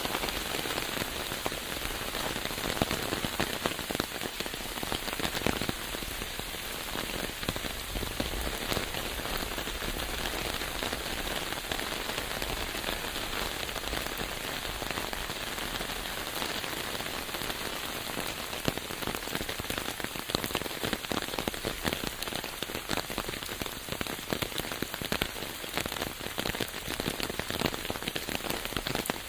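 Steady rain falling, with many separate drop hits ticking through a continuous hiss.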